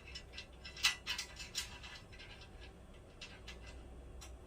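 Aluminium extrusion frame parts and metal hardware being handled and fitted together: a few sharp metallic clicks in the first couple of seconds, the loudest about a second in, over a faint low steady hum.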